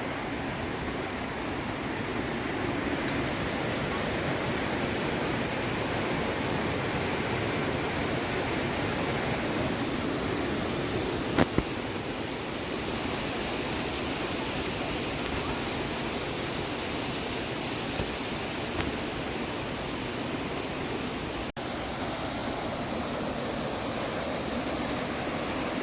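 The Riyang river rushing steadily over its rocky bed. Two sharp clicks are heard near the middle.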